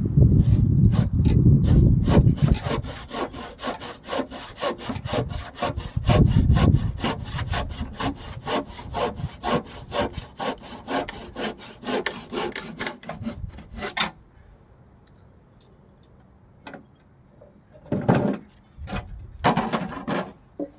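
Hand saw cutting through a piece of timber with quick, even strokes, about four a second, that stop about two-thirds of the way through. A couple of short rubbing or knocking sounds come near the end.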